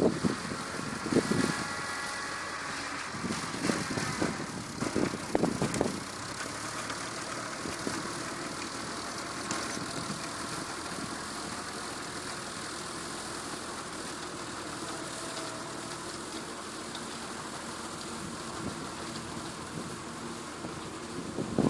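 Tractor engine running steadily, with a few louder irregular bursts of noise in the first six seconds.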